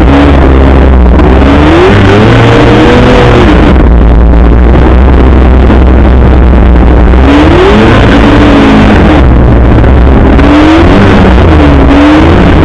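Arctic Cat F8 snowmobile's two-stroke twin engine revving up and falling back several times while the sled works through deep snow drifts. It is very loud throughout.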